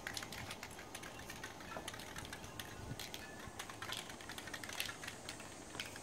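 Faint, irregular small clicks and rustles of cardboard being handled and worked.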